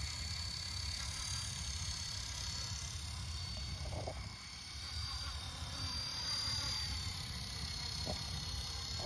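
Small electric RC helicopter's motor giving a thin, steady high whine that wavers slightly in pitch, over a low rumble. Two short croaks come about four and eight seconds in.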